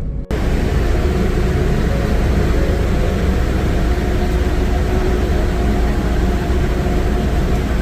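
A large engine running steadily with a strong low rumble and a constant hum, cutting in suddenly just after the start.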